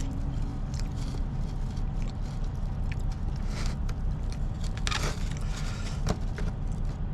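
Someone chewing food close to the microphone, with a few short clicks and scrapes, over a steady low rumble.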